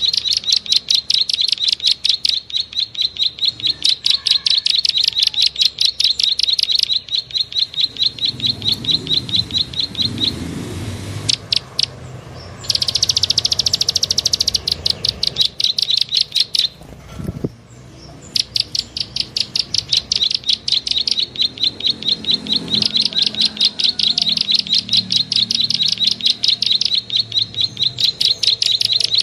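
Bird-lure recording of a small bird's rapid repeated chirping, about five high chirps a second, broken twice by short pauses and once by a denser, buzzier trill. A single low thump comes during the second pause.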